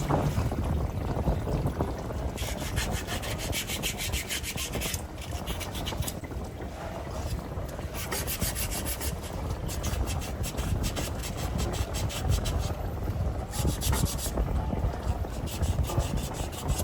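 Rapid, repeated abrasive rubbing strokes on a hard part, coming in spells, over a low steady rumble.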